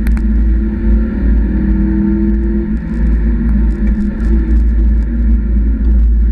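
Mazda MX-5 NB engine running at fairly steady revs, heard inside the car with heavy low rumble. A sharp click sounds right at the start.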